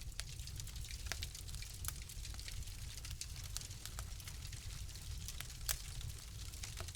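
Wood fire crackling in a fireplace: irregular sharp pops and snaps over a steady low rumble, with one louder pop late on.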